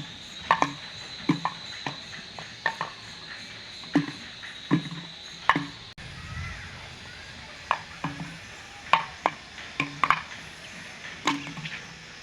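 Frogs croaking in short, irregular calls, about a dozen over several seconds. A steady high-pitched tone sounds behind them until a sudden break about halfway through.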